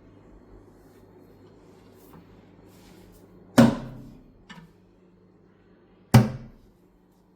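Kitchen cabinet doors shutting: two sharp thuds about two and a half seconds apart, with a smaller knock between them.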